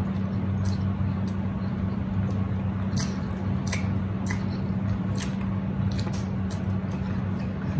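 Wet chewing and squishing of a soft, saucy sub sandwich being eaten, with scattered sharp mouth clicks, over a steady low hum.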